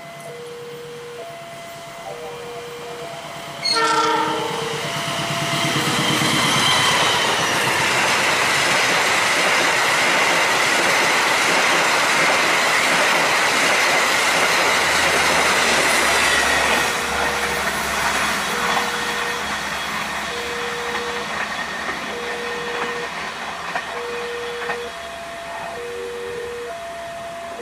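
Diesel-hauled passenger train: the locomotive sounds one short horn blast about four seconds in, then the train passes close by at high speed and fades as it moves away. An alternating two-note tone sounds before the horn and again as the train recedes.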